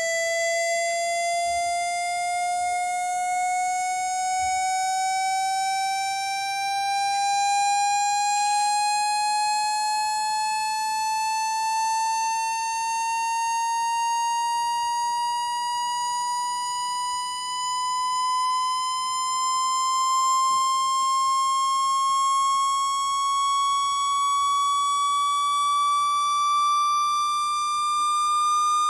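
Electronic test tone with overtones gliding slowly and steadily upward in pitch, a sweep played through a phone's speaker to shake water out of it.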